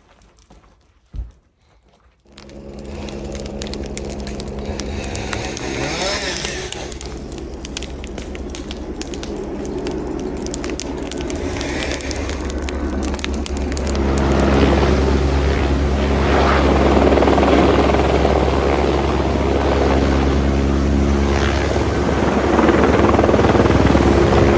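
Helicopter running steadily, starting abruptly a couple of seconds in and growing louder about halfway through.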